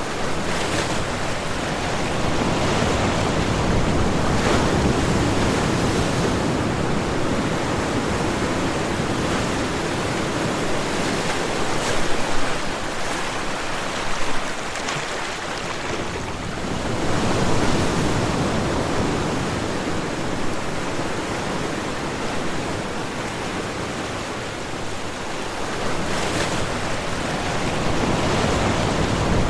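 Ocean waves breaking and washing on a shore, a steady rush of surf that swells and recedes every several seconds.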